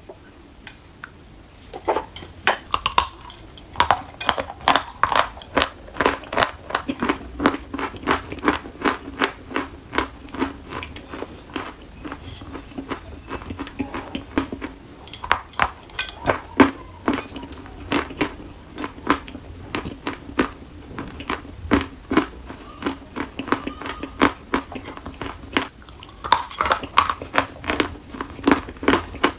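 Chalk being bitten and chewed close to the microphone: a dense run of sharp, dry crunches, several a second, starting about two seconds in.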